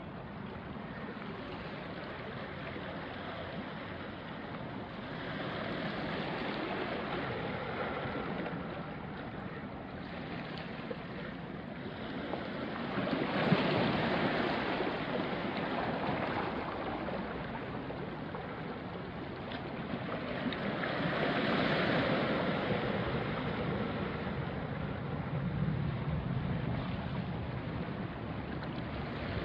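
Small sea waves washing onto a rocky shore: a steady wash of water that swells and eases in surges several seconds apart, the strongest about halfway through and another a little after two-thirds of the way.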